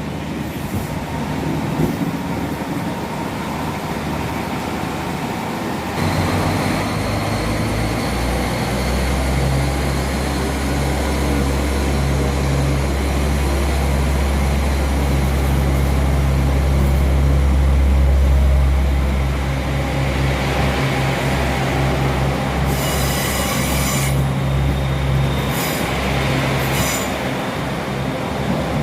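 Diesel multiple-unit train running past the platform. Its engine drone grows about six seconds in, is strongest around two-thirds of the way through, then eases. Brief high-pitched wheel squeals come near the end.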